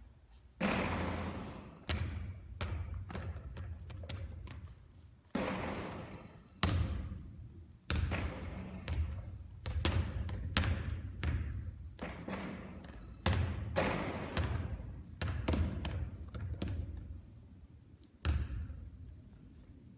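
A basketball thudding again and again at irregular intervals during three-point shooting practice, each thud trailing off in a long echo.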